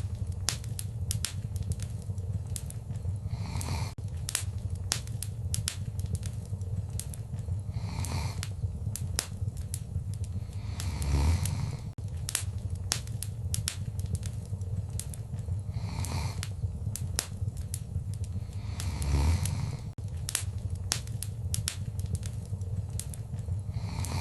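Wood fire crackling in a fireplace: frequent sharp pops and snaps over a steady low rumble of the flames, with a soft rushing swell every few seconds.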